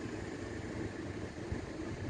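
Steady low rumble of road traffic, with a faint hiss over it.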